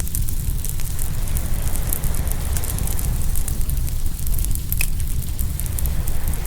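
Open wood fire crackling and popping, with sharp snaps scattered through and one louder pop about three-quarters of the way in, over a steady low rumble of ocean waves.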